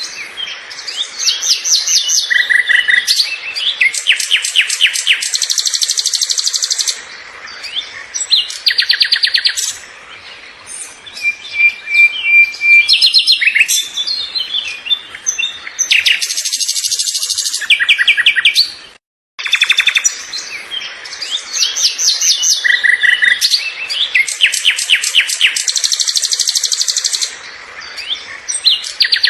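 Songbirds singing: quick high chirps and rattling trills in phrases a few seconds long, with a brief break about 19 seconds in.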